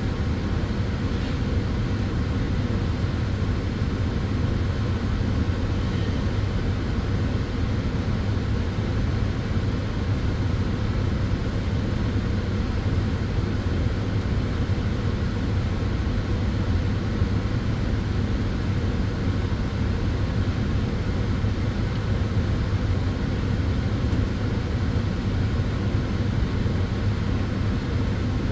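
Sunbed running with a steady low hum under an even rushing whir that does not change.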